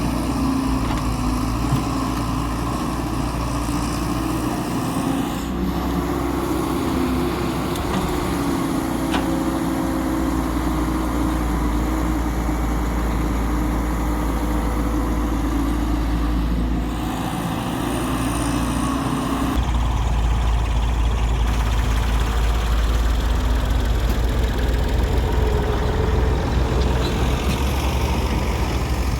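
Heavy diesel machinery running steadily, from a wheeled excavator loading mud into a tractor trolley. About twenty seconds in the engine note shifts to a deeper, louder rumble.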